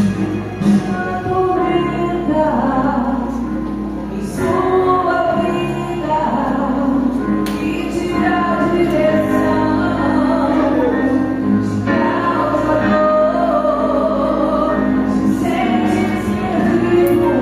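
Gospel choir singing, female voices most prominent, over instrumental accompaniment with steady held bass notes.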